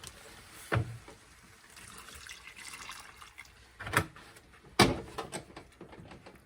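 Water running faintly from a kitchen tap, with three sharp knocks, the loudest nearly five seconds in.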